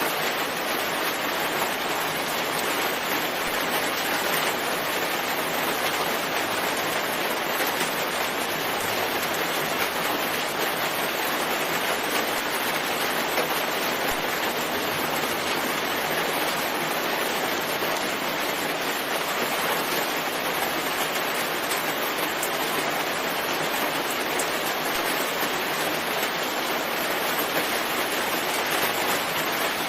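Steady rain falling, an even, unbroken hiss with no separate drops or crackles standing out.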